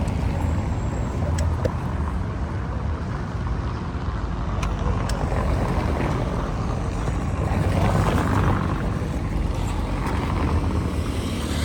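Steady street traffic noise with a heavy low rumble of wind on the microphone, heard while riding a bike through city streets.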